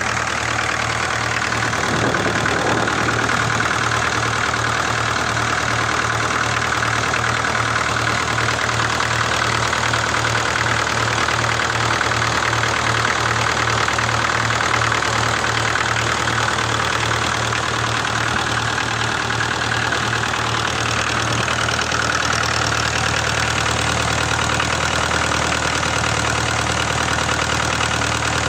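Tractor engine running steadily at idle with an even low pulsing beat.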